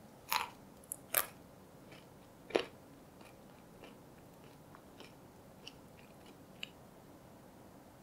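Biting into and chewing a crunchy peanut butter icebox cookie with chopped nuts: three loud crunches in the first few seconds, then softer, sparser crunches as it is chewed.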